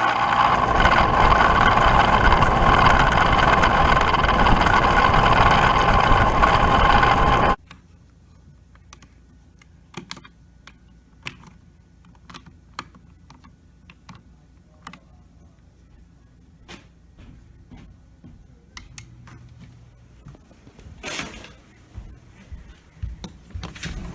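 Bryant Legacy central air conditioner's outdoor condensing unit running loud and steady, picked up through a camera sitting on the vibrating cabinet. About seven and a half seconds in the sound cuts off suddenly, leaving a faint low hum with scattered clicks and knocks.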